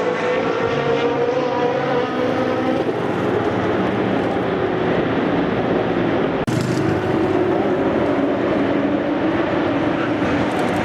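Race cars passing at speed with loud, unsilenced exhausts; the engine note of one car falls away over the first few seconds, and another car's engine rises and falls near the end.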